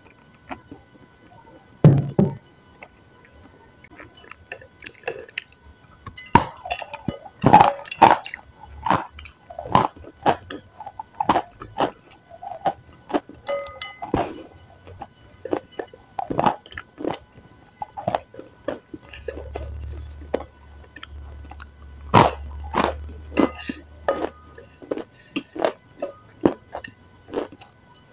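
A person chewing and eating a sticky food: a string of irregular mouth smacks and clicks.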